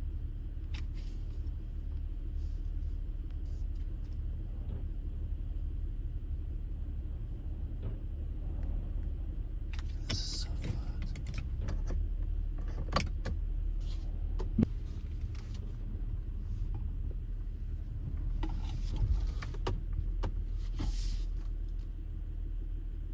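Steady low rumble of a car driving on a rough dirt road in strong wind, with scattered sharp clicks and rattles, a cluster of them near the middle and another late on.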